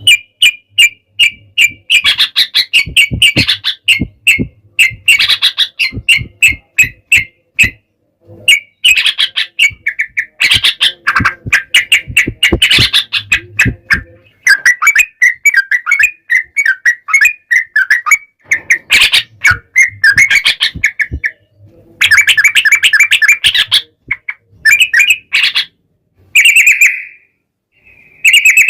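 Yellow-vented bulbuls (trucukan) singing in loud, fast rolling phrases of repeated chattering notes, one burst after another with short pauses between.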